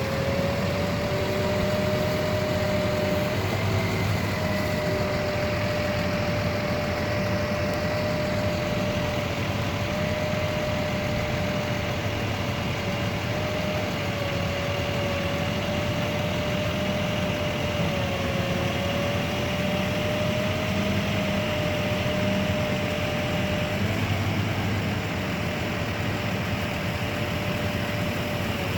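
Truck engine running steadily with a constant mechanical hum and a steady whine that wavers slightly in pitch.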